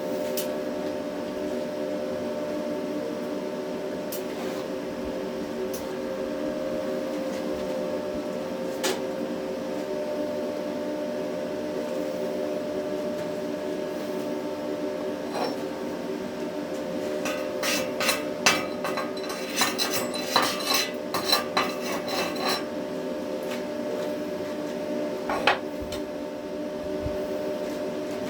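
Welding machine humming steadily, with a burst of sharp metallic clinks and taps about two-thirds of the way through and one more tap shortly after, steel being struck or handled on the welding bench.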